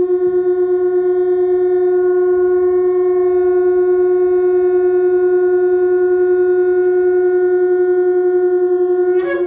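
Shofar (ram's horn) blown in one long, steady, held note that ends with a short upward flare as the blast breaks off near the end.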